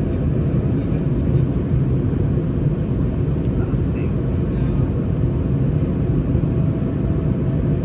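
Steady low cabin noise of an Airbus A319 in flight, heard from inside the cabin: its CFM56 engines and airflow make an even rumble with no changes in pitch or level.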